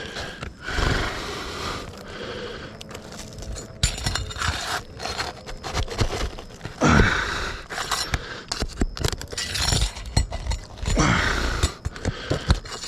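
Scraping and prying at roof shingles to work nails loose from underneath, with irregular sharp clicks and clinks.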